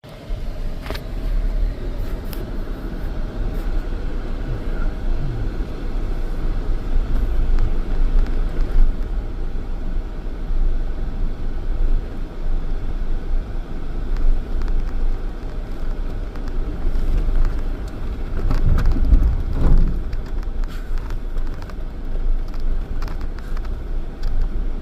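Off-road vehicle driving over a rough dirt trail: a steady low rumble of engine, tyres and wind, with a few sharp knocks and a louder surge late on.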